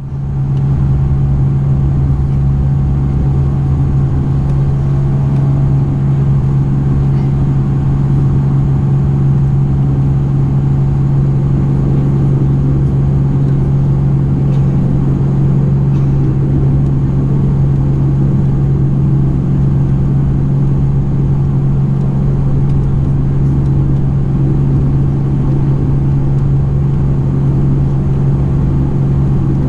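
Bombardier Dash 8-402 (Q400) turboprop engines and propellers heard inside the passenger cabin: a loud, steady drone with a strong low hum that holds unchanged.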